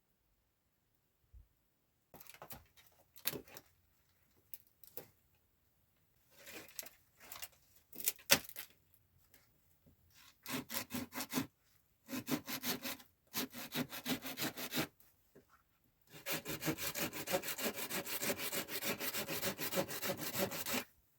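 Wood being sawn or rubbed with back-and-forth strokes. It comes in short, uneven bouts at first, then a fast, steady run of strokes over the last few seconds.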